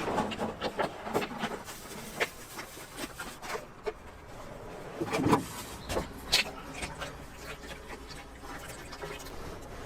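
Irregular clicks and knocks of food-preparation work, with one louder thump about five seconds in.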